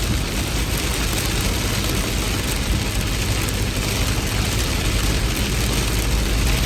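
Heavy rain falling steadily, an even hiss with a steady low rumble underneath.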